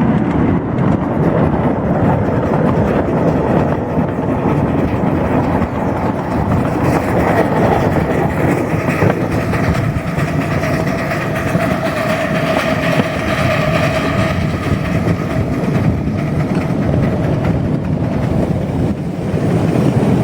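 7.5-inch gauge live steam train running along backyard track, a steady rumble of wheels on rail with clicking over the rail joints. A held, pitched tone sounds over it from about halfway through for several seconds.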